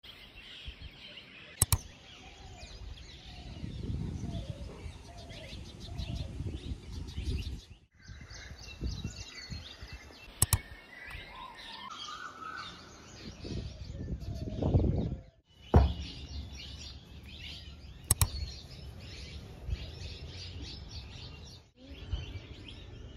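Birds chirping and calling, many short overlapping chirps over a low rumble of outdoor background noise, with a few sharp clicks.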